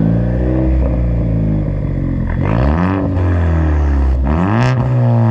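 Straight-piped 2017 Ford Focus ST's turbocharged 2.0-litre four-cylinder rumbling at idle through its muffler- and resonator-deleted exhaust, revved up and back down twice, about two and a half and four and a half seconds in.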